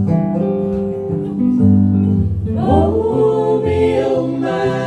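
Live blues band playing between sung lines: stepping bass and guitar notes, joined about halfway through by a loud, held, bending melody line.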